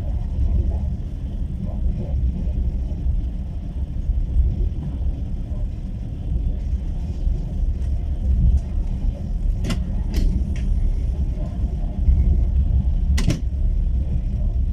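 Passenger train car running on the rails, heard from inside the carriage: a steady low rumble of the wheels and running gear, with a few sharp clicks about ten and thirteen seconds in.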